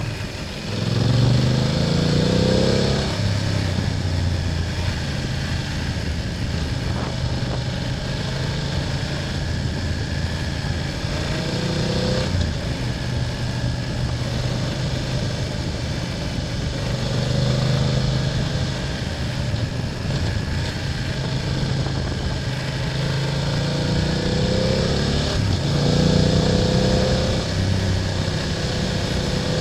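BMW F800GS parallel-twin engine under way, its pitch rising several times as it accelerates, with steadier running in between.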